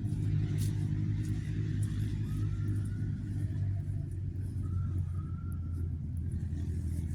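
Steady low drone of a running motor vehicle's engine and road rumble, even throughout, with a few faint higher squeaks over it.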